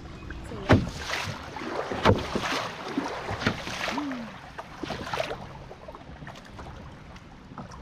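Canoe paddle strokes in lake water, a splash and swish about every second and a half, easing off after about five seconds.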